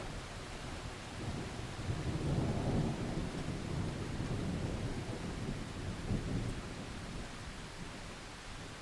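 Rolling thunder over steady rain: a deep rumble swells about a second in, peaks soon after and slowly dies away, while the rain hiss carries on.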